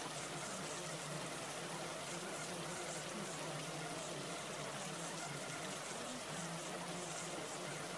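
A steady rushing, water-like noise at an even level, with a faint low hum wavering underneath.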